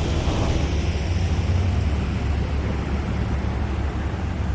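Steady low diesel engine rumble under an even hiss.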